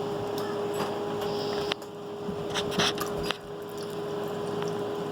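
A few light clicks and knocks of handling over a steady hum.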